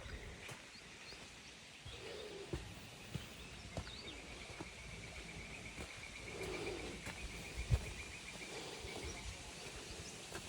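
Birds calling outdoors: scattered short chirps, with a rapid, even trill that goes on for about five seconds through the middle. Under them are a steady faint background hiss and a few soft low knocks.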